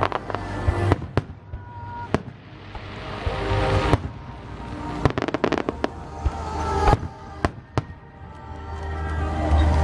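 Aerial firework shells bursting in a series of sharp bangs, with a quick cluster about halfway through, while music plays alongside, swelling and fading.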